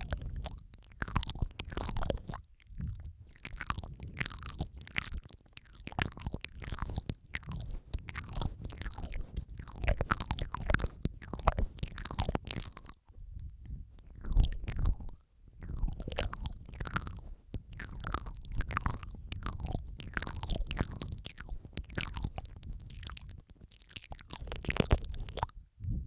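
Close-miked ASMR mouth sounds, layered: a dense, irregular run of wet clicks, smacks and licking sounds, with a low rumble beneath and a few brief pauses.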